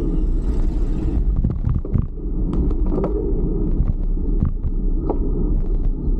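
Steady low rumble of wind and road noise on a camera riding along on a fixed-gear bicycle, with scattered short clicks and knocks.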